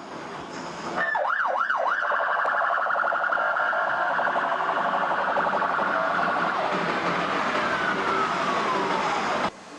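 Vehicle sirens wailing, several at once: a fast up-and-down warble at first, steadier tones after, and a long falling wail near the end before the sound cuts off suddenly.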